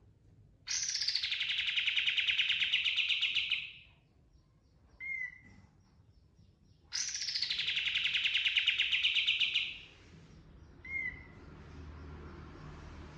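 Olive-winged bulbul (kapas tembak) singing: two long, rapid rolling trills of about three seconds each, each opening with a falling sweep, and each followed by a short whistled note.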